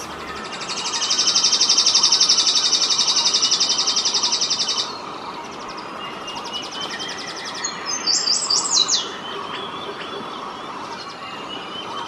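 Birds calling in forest: a loud, fast, high trill lasting about four seconds, then a short run of high falling notes about eight seconds in, over a steady background of forest sound.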